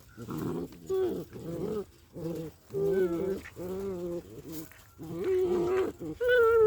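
Small dogs play-fighting, giving a rapid series of short pitched vocal calls, each under a second, some bending up and down in pitch, louder near the end.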